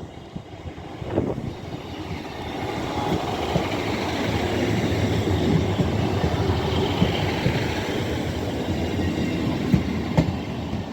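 A Class 158 diesel multiple unit running into the platform. Its sound builds over the first few seconds and then holds steady, with a low engine hum under the noise of the wheels on the rails and a couple of sharp clicks near the end.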